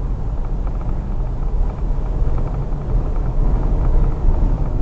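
A moving vehicle: a steady low rumble of engine and road noise.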